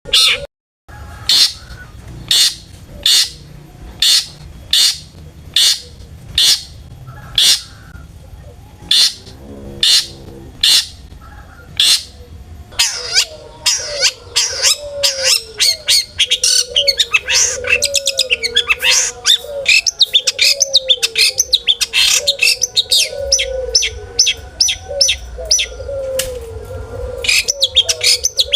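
Long-tailed shrike (cendet) in full song: sharp, loud calls repeated about once a second, breaking about halfway into a fast, dense chattering run over a lower, wavering warble. This is the aroused 'gacor' song played to rouse other shrikes.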